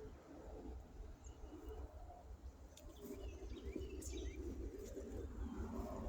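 Birds chirping in short, high calls over a low rumble, with a steadier mid-pitched noise building from about halfway through.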